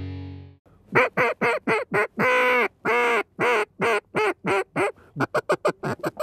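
Buck Gardner FireCracker double-reed duck call blown in a sequence of mallard hen quacks. A few short quacks lead into two long, drawn-out quacks and a run of evenly spaced quacks, and near the end comes a fast string of short quacks.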